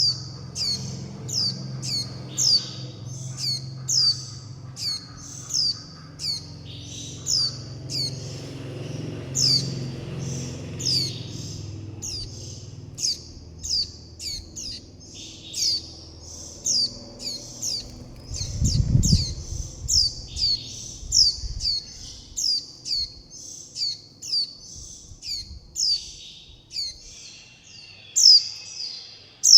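Young white-eyes calling continuously: short, high, down-slurred chirps about twice a second, overlapping. These are fledglings' calls to a parent and the flock and their begging for food. A brief low rumble comes about two-thirds of the way through.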